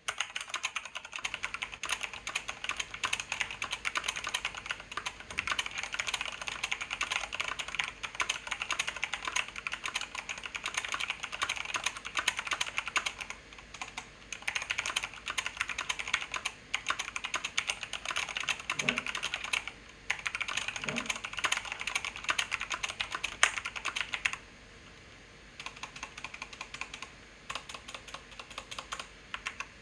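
Fast, continuous typing on a Corsair K95 mechanical keyboard: a dense patter of key clicks with a few short pauses, lighter over the last few seconds.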